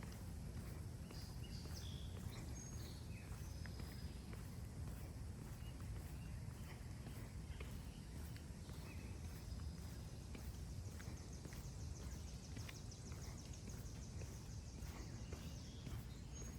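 Outdoor neighbourhood ambience: footsteps walking on pavement over a steady low rumble, with birds chirping. A fast high trill runs for several seconds in the second half.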